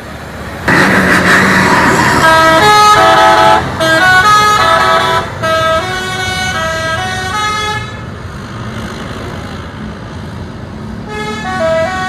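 Multi-tone musical vehicle horn playing a stepping tune of loud, rich notes after a short hissing burst, fading off partway through and starting up again near the end.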